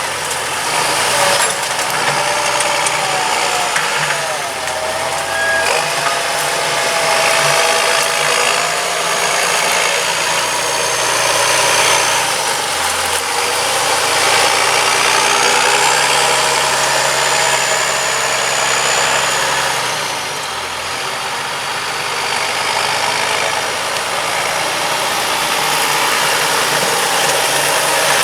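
John Deere 6520 tractor's six-cylinder turbo diesel running steadily under load while pulling a four-furrow Kuhn plough. The engine note shifts a few times, with a faint whine rising and falling above it.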